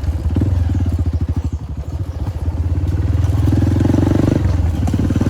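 Motorcycle engine running with a rapid, even putter, swelling louder for about a second past the middle before easing back.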